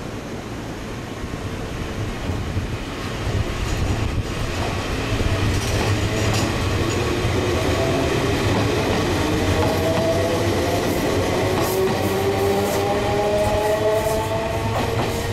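Enshu Railway 30-series electric train pulling away, its nose-suspended (tsurikake) traction motors giving a gear whine that rises steadily in pitch as it accelerates. Rail-joint clicks sound a few times over the running noise.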